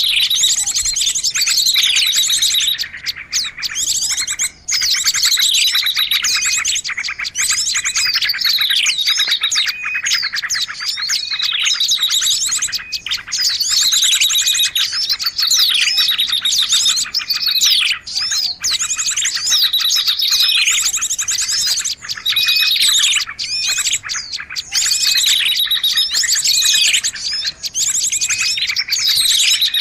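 A dense, noisy chorus of small birds chirping and twittering together, used as a bird-luring call, with a falling call repeating about every two seconds.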